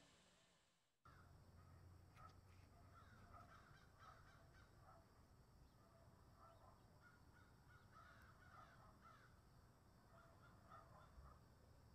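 Faint, repeated short bird calls chattering over a low steady hum. They start abruptly about a second in, after near silence.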